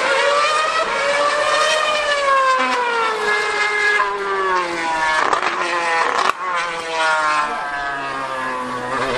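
Distant 2013 Mercedes Formula 1 car's 2.4-litre V8 screaming at high revs, its pitch slowly falling, breaking sharply twice about five to six seconds in, then climbing again. A weaker, lower engine note runs underneath.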